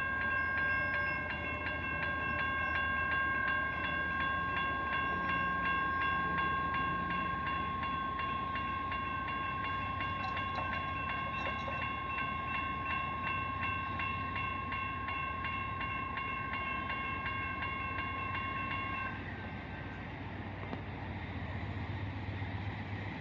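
Railroad grade-crossing bell ringing with rapid, even strikes over the low rumble of a passing train; the bell cuts off about nineteen seconds in while the train rumble continues.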